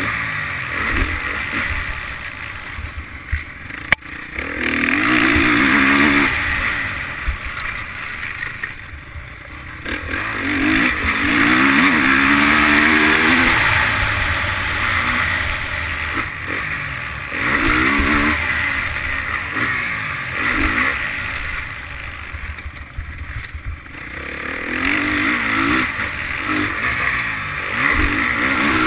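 Motocross bike engine heard from on board, repeatedly revving up hard through the gears and then backing off. There is a single sharp knock about four seconds in.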